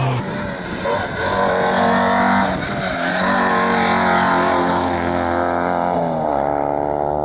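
Rally car engine running hard at high revs on a hillclimb stage, its pitch shifting as it changes gear, with a sharp drop in pitch about six seconds in.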